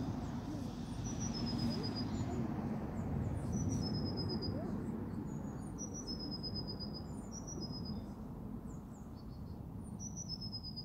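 A small bird singing in the background: short high thin phrases of a few notes stepping down in pitch, repeated every couple of seconds. Under it a louder low rumbling noise on the microphone.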